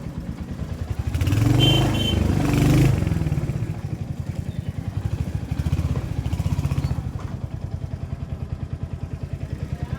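Motorcycle engine running with an even, pulsing beat, swelling louder for a couple of seconds about a second in.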